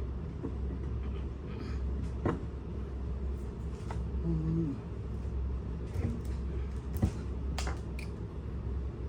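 A few sharp clicks and knocks of metal parts and tools being handled while the pump and motor are fitted together, the loudest about two seconds in and about seven seconds in, over a steady low hum.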